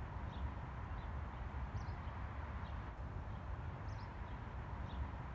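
Quiet outdoor ambience: a low, uneven rumble with a bird's short, high two-note call heard twice, about two seconds apart.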